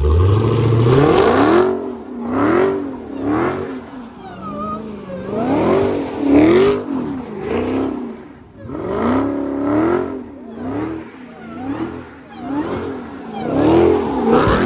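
Car engine revved hard again and again, its pitch climbing and dropping roughly once a second.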